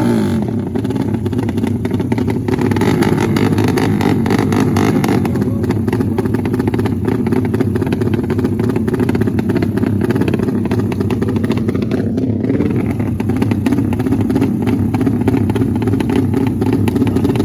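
Motorcycle drag-race engines running loudly and continuously, a dense rapid crackle of exhaust pulses.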